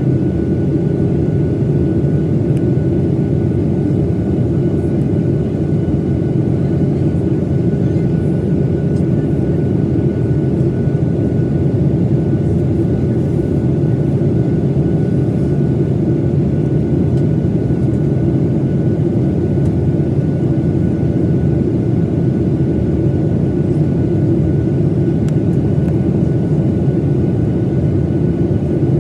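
Steady cabin noise inside a Boeing 737-900ER in flight: the drone of its CFM56 jet engines and the rush of air over the fuselage. The noise is deep and even throughout, with a faint high steady tone above it.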